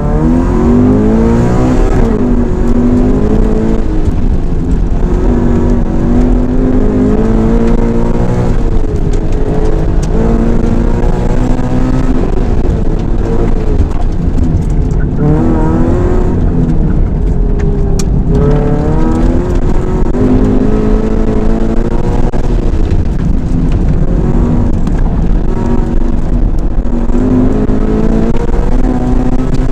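Subaru BRZ's 2.0-litre flat-four boxer engine breathing through an aftermarket exhaust header, revving, its pitch climbing and dropping again and again.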